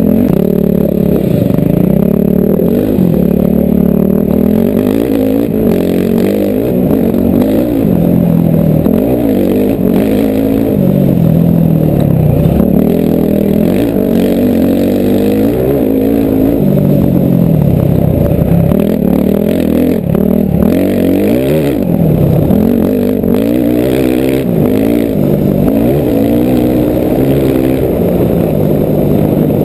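Yamaha dirt bike's engine, heard from the rider's helmet, revving up and easing off again and again as the bike is ridden hard along a dirt trail.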